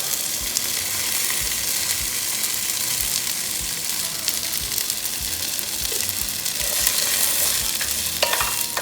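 Washed jasmine rice frying in hot shallot oil in a Dutch oven: a steady sizzle, with the rice being stirred and tossed so it toasts toward translucent.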